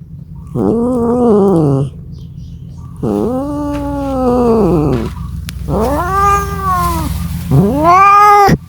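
Domestic cat yowling (caterwauling): four drawn-out calls, each rising then falling in pitch, the second the longest at about two seconds. This is the yowl of a cat calling for a mate.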